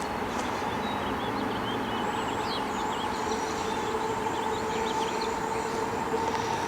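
Steady distant vehicle rumble with a constant hum, and faint high chirps over it in the middle.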